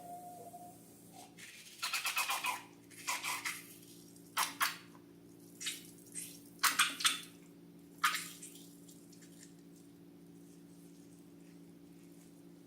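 Slime being squished and stretched by hand: several short bursts of sticky crackling squelches over a steady low hum.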